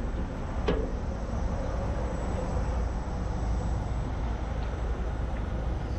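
A steady low rumble of outdoor background noise, with a single sharp click just under a second in.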